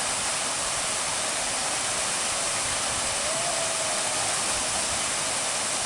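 Steady rushing hiss at an even level, like running water or wind on the microphone, with a faint brief tone about three and a half seconds in.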